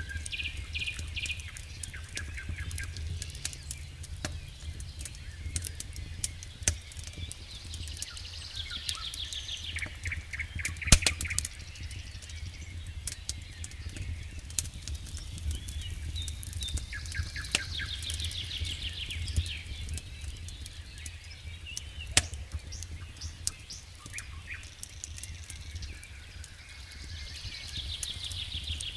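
Songbirds singing trilled phrases that recur every several seconds, over scattered sharp pops and crackles of a wood campfire, the loudest pop about 11 seconds in. A steady low rumble runs underneath.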